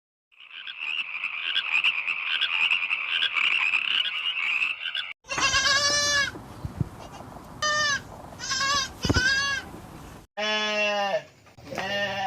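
A frog chorus croaking in a dense, rapid trill for about five seconds, cut off abruptly. This is followed by bleating: several short, wavering calls.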